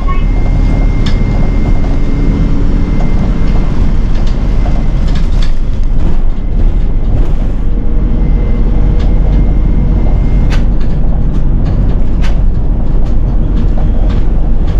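Nishitetsu city bus driving: a steady low engine and road rumble, with scattered short rattles and clicks.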